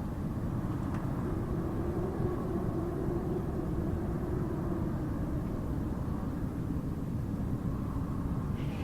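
Howling wind: a steady low rumble with a moaning tone that wavers slowly up and down over it.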